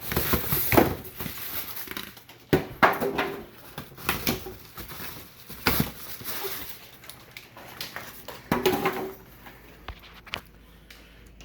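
Styrofoam packaging being worked loose from a cardboard appliance box. It squeaks and scrapes in a string of irregular bursts.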